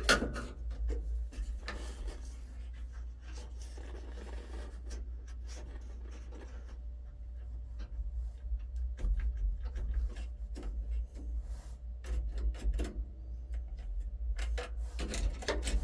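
Scattered clicks and rubbing from hands working the knobs and controls of a car radio in a dash, over a steady low rumble. The radio itself stays silent.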